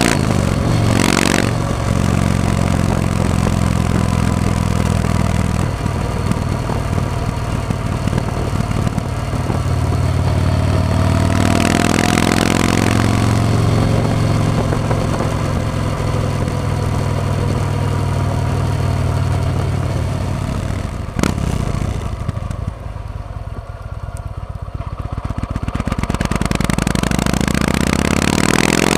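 Yamaha MT-01's big air-cooled V-twin engine running under way, with wind rushing past the camera. The revs rise as it accelerates about twelve seconds in. After a sharp click about 21 seconds in, it runs low and slow with its separate firing pulses audible, then climbs again as it accelerates near the end.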